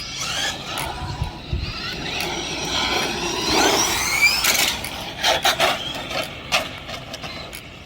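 Electric RC car motor whining, its pitch rising and falling as the car speeds up and slows, followed by several sharp knocks about five to six and a half seconds in.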